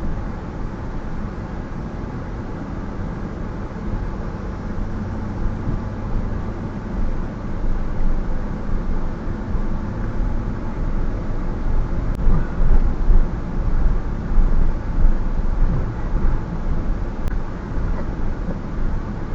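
A vehicle driving slowly with a trailer in tow, a steady low rumble of engine and road noise. It grows rougher and more uneven about halfway through.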